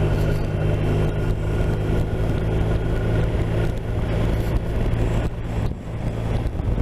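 BMW R 1250 RT's flat-twin engine running steadily on the move, with wind and road noise over it; the sound dips briefly a little over five seconds in.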